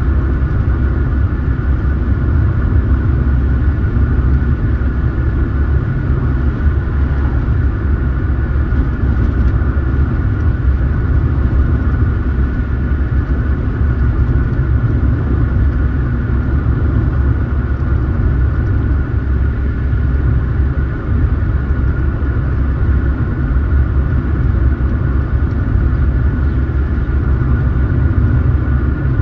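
A car driving at a steady pace: an even low rumble of engine and road noise, with a faint steady high whine over it.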